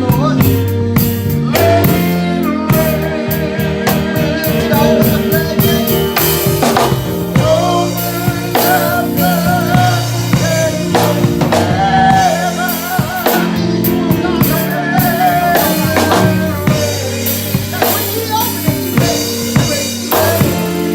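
Live church band music: a drum kit with bass drum and rimshots keeping a beat under sustained keyboard chords, with a wavering melody line over the top.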